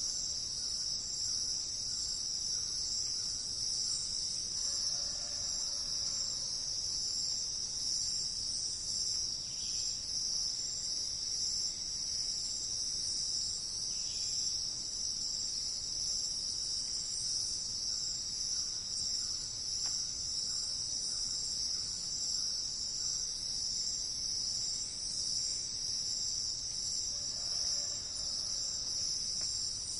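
A steady, continuous high-pitched insect chorus of crickets. A faint short call sounds lower beneath it twice, about five seconds in and near the end.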